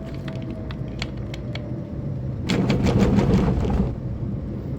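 Car cabin road noise: a steady low rumble of the car driving, with scattered clicks and, about two and a half seconds in, a louder burst of rapid rattling and clatter lasting just over a second.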